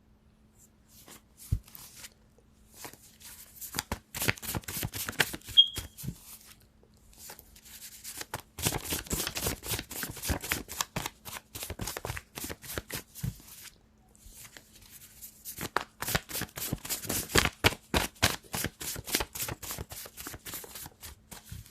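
A deck of tarot cards shuffled by hand: three spells of rapid fluttering card clicks with short pauses between them.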